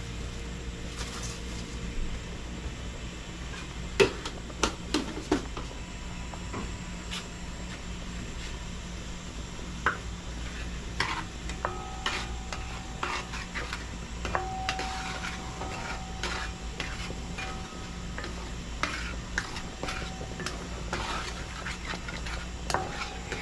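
A spoon stirring barbecue sauce in a pot, clinking and scraping against the pot, with a few sharp knocks about four to five seconds in and lighter repeated clinks through the second half.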